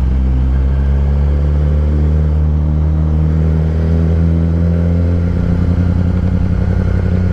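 2016 Kawasaki ZX-10R's inline-four engine running at low revs through a Graves race exhaust, its note easing slowly downward, then settling into a steady, rougher low note about five seconds in.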